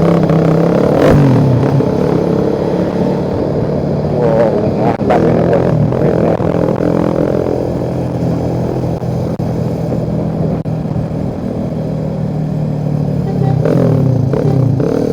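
Motorcycle engine running under way, with the revs rising and falling a few times, around a second in, around four to five seconds in and near the end.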